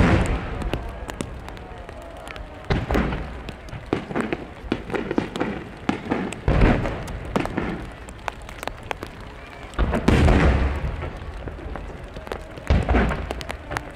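Large aerial fireworks shells bursting: five deep booms a few seconds apart, each followed by a rumble, with sharp crackling between them.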